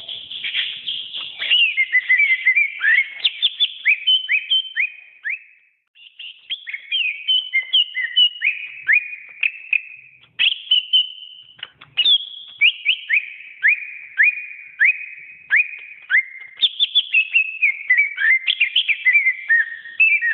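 Cucak ijo (green leafbird) singing: a fast, varied run of sharp downward-sweeping whistled notes, with short breaks about six and twelve seconds in.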